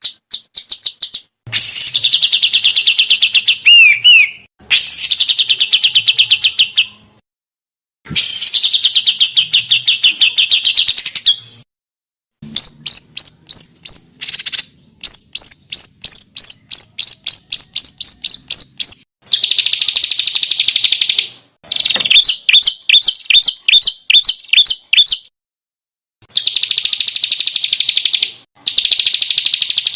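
Songbird song played as masteran tutor audio: fast trills of high, rapidly repeated notes in bursts of one to three seconds, cut apart by abrupt silences, with a stretch of slower separate notes partway through.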